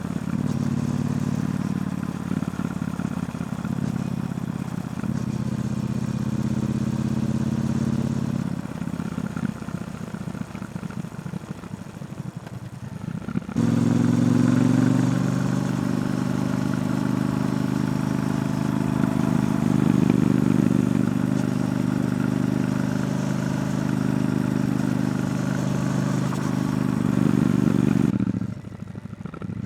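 Triumph Bonneville T120's 1200 cc parallel-twin engine through its stock exhaust while riding. The engine runs steadily, eases off and goes quieter about a third of the way in, then comes back suddenly louder just before halfway and holds. Near the end it drops away sharply for about a second before picking up again.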